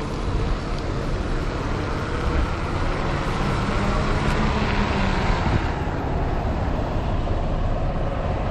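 Street traffic and road noise heard from a moving e-bike, with a constant low rumble of wind on the microphone. A vehicle passes, swelling about four to five seconds in and fading by about six seconds.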